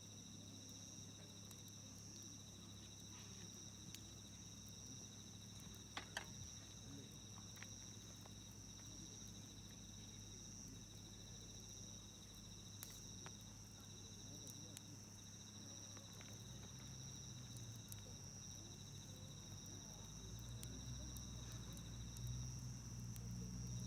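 Faint wood campfire crackling, with a few sharp pops, over a steady high chirring of insects. A low hum runs underneath and swells near the end.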